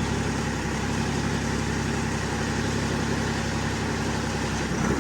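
BMW M57 straight-six turbodiesel in a Land Rover 110 Defender running steadily at low revs.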